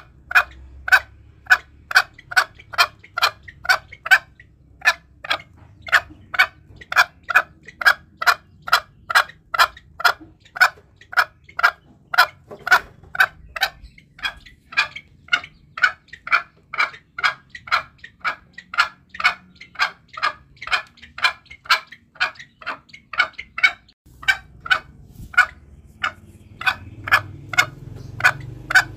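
Green junglefowl calling, a long run of short clucking notes repeated about two to three times a second, with a few brief pauses.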